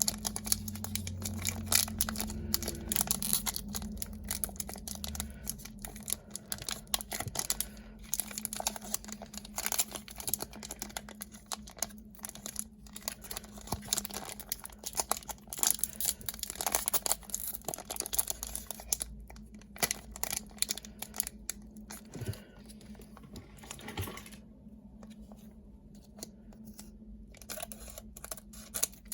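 Pokémon card booster pack's foil wrapper being torn open and crinkled by hand: a long run of irregular crackles and rips that thins out after about twenty-four seconds.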